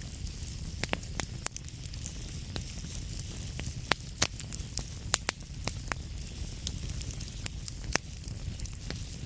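Wood fire burning in a fireplace: irregular sharp crackles and pops over a steady low rumble and a soft hiss.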